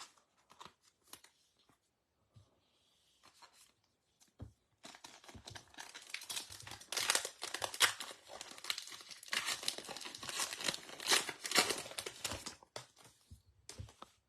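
A foil baseball card pack wrapper being torn open and crinkled for about eight seconds, after a few light clicks of cards being handled.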